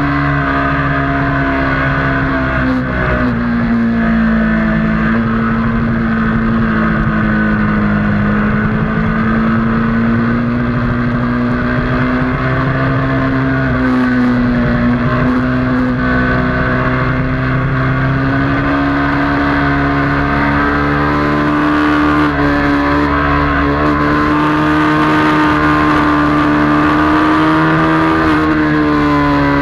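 Motorcycle engine running hard on a racetrack, heard from a camera mounted on the bike. The note holds steady, sagging a little and climbing again as the throttle changes.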